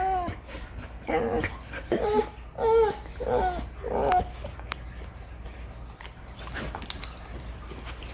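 A border collie whining in a run of about six short, high, wavering whimpers over the first few seconds, then fainter. The owner calls it crying and takes it for the dog wanting attention after missing her.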